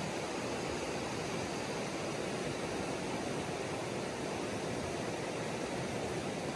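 Steady rushing of a river swollen by heavy rain, an even noise that holds level throughout.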